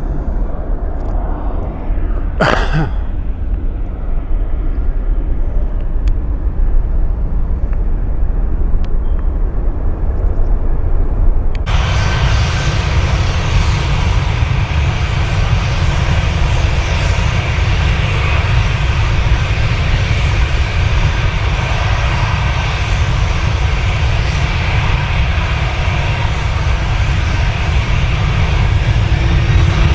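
Airliner engines running loud as an aircraft passes on the runway, with a brief knock near the start. About twelve seconds in the sound jumps abruptly to a louder, fuller engine noise with steady whining tones.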